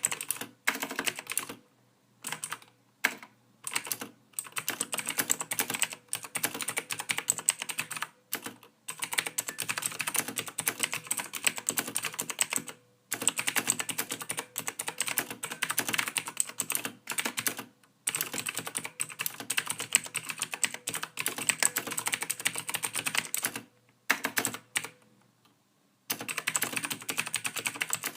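Computer keyboard typing: rapid runs of key clicks broken by brief pauses.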